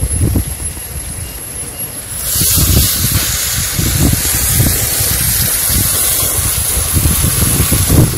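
Marinated chicken pieces sizzling in hot oil and masala in an aluminium pan; a loud, steady sizzle starts suddenly about two seconds in. Uneven low rumbling of wind on the microphone runs underneath.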